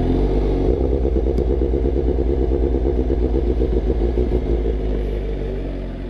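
2022 Suzuki GSX-R750's inline-four running at low revs through a Black Widow full exhaust, with an even, rapid pulsing beat. The sound starts to fade near the end.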